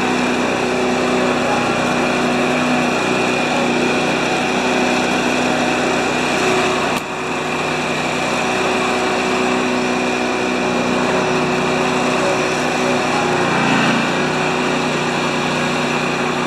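Small snowblower engine running steadily while it warms up after a cold start.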